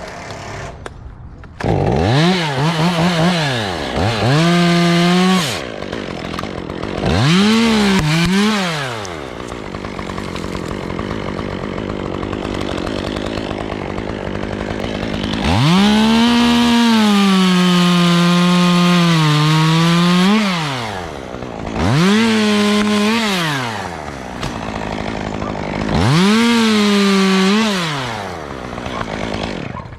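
Two-stroke chainsaw revving up to full throttle and dropping back to idle about six times. In the middle it holds one longer run of about five seconds, and the pitch dips partway through as if under load in a cut.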